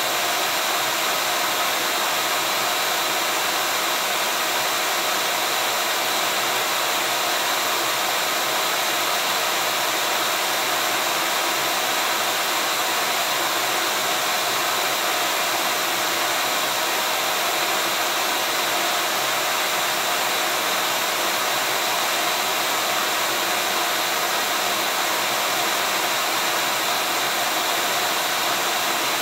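Vacuum cleaner running steadily: an even rush of air with a steady motor whine, unchanging throughout, played as white noise to soothe a colicky baby.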